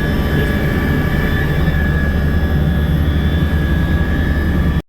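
Helicopter running steadily with a loud low rumble and a high whine, cutting off suddenly near the end.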